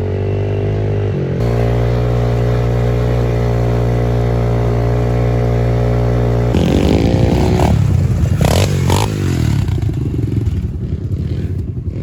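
Pit bike engine holding a steady note, then about six and a half seconds in it is revved, its pitch rising and falling and turning rough, with some clatter.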